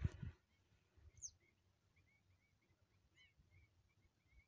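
Faint small birds chirping, a quick run of short calls with one higher falling whistle about a second in. A single footstep thump in dry ground and brush comes right at the start and is the loudest sound.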